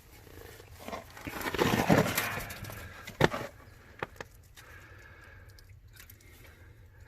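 Broken rock pieces being handled: a scraping crunch about two seconds in, then a sharp knock a little after three seconds and a fainter one a second later.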